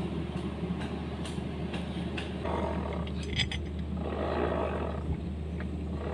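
Kubota M9000 tractor's diesel engine running steadily, swelling louder and rougher twice, with a few light clicks.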